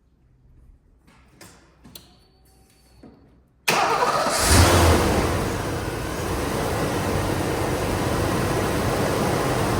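1989 Ford Mustang GT's 5.0-litre V8 cold start: after a few faint clicks the engine catches abruptly about three and a half seconds in, flares briefly, then settles to a steady fast idle.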